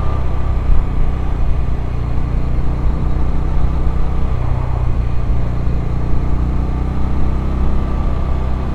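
Bajaj Dominar 400's single-cylinder engine running steadily at low revs in third gear, at about 30 km/h.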